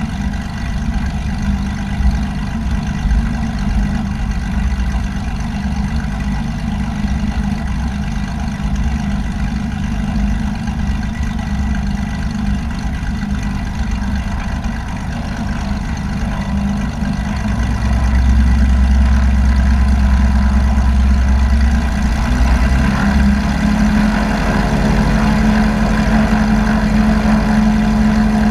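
Light aircraft's piston engine and propeller running steadily, with a constant thin tone high above it; about two-thirds of the way through the engine grows louder and deeper as power is added.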